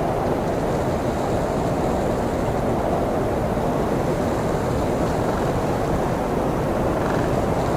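Heavy blizzard wind blowing steadily: a dense, low rushing noise that never lets up.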